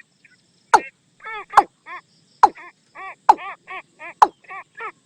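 Watercock calls, played as a decoy call to lure the birds: loud, sharp notes that slide downward in pitch, about one every second, alternating with quicker short notes that rise and fall in pitch, in a steady repeating pattern.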